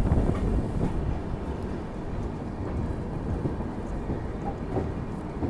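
Low rumble and rattle of an express train's coach rolling slowly into a station platform, heard from the coach doorway. It eases a little in the first second or two as the train slows, then holds steady.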